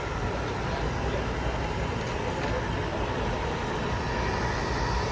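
HO scale model train running on an operating layout, a steady rumble of its wheels and motor on the track, over constant hall noise.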